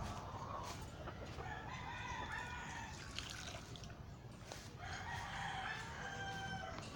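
Game fowl roosters crowing, several long crows one after another over a low background rumble.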